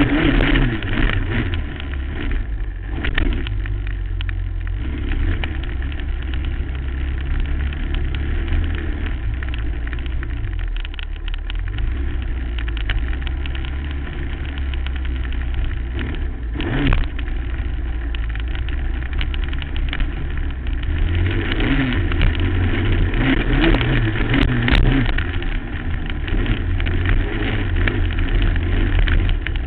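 Suzuki LT-R450 quad's single-cylinder four-stroke engine running hard on a motocross track, revs rising and falling, busier and louder over the last several seconds. A short sharp knock about seventeen seconds in.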